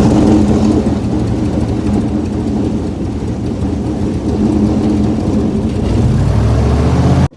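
Boat engine running loud and steady at speed, its pitch rising about six seconds in, then cutting off suddenly.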